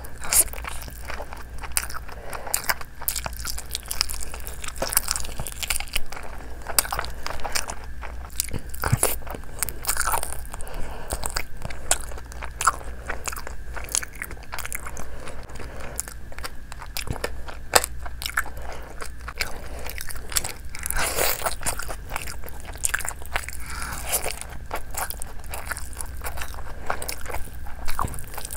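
Mouth-close eating sounds: biting and chewing a spicy chicken lollipop and handfuls of Schezwan fried rice, a dense run of irregular crunches and clicks.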